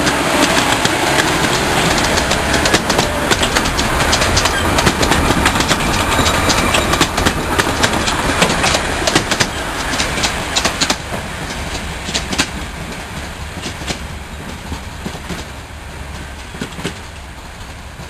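A miniature railway train's carriages rolling past close by, their wheels clattering over the rail joints in rapid clicks. The sound fades steadily from about eleven seconds in as the train moves away.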